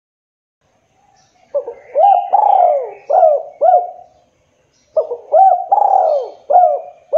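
Spotted dove (tekukur) cooing: two repeated phrases of low, mellow coo notes, each phrase several notes long, with a short pause between them.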